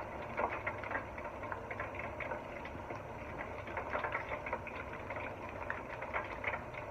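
Chicken pieces deep-frying in hot oil at 350 degrees: a steady sizzle with many small irregular crackles.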